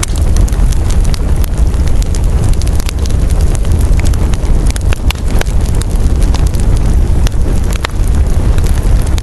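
Campfire burning with frequent sharp crackles and pops, over a heavy low rumble of wind on the microphone.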